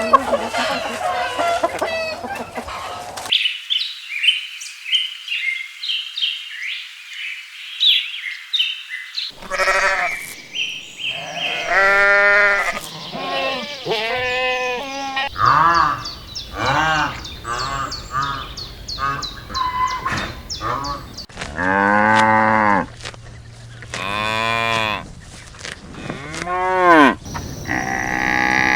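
Cows mooing: a series of separate drawn-out calls, each rising and falling in pitch, the loudest near the end. The first few seconds hold a different, higher-pitched chirping and clucking.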